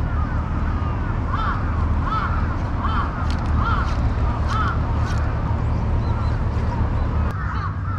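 A bird calling over and over, short arched calls coming about once or twice a second, over a steady low hum.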